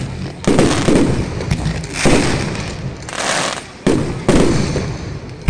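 Fireworks display: aerial shells bursting, about four loud bangs, each followed by a long fading rumble.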